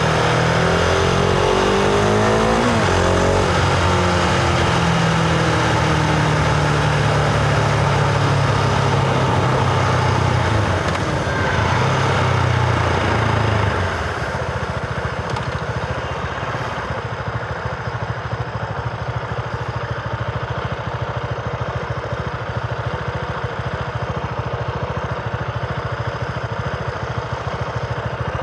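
Husqvarna Vitpilen 701's single-cylinder engine pulling through the gears, its pitch rising and stepping with the shifts. About halfway through it drops back to a quieter, steady low-rev beat.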